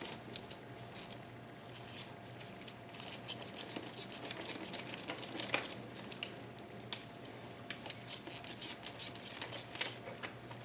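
Scattered light clicks, ticks and rustling of tools and parts being handled while working on the engine, over a steady low hum.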